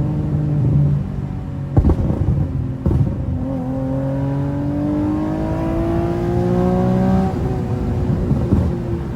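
Infiniti G37's 3.7-litre V6 under way, its note climbing steadily for about four seconds under acceleration, then dropping off suddenly. Two sharp knocks come earlier, in the first few seconds.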